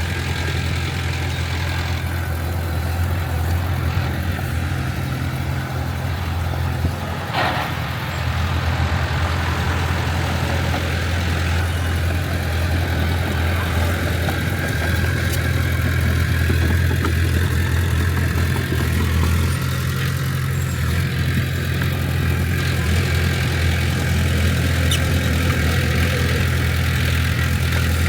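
Heavy diesel engine of earthmoving equipment running steadily with a deep, even drone, its loudness rising a little after about eight seconds. A brief higher-pitched sound cuts through about seven seconds in.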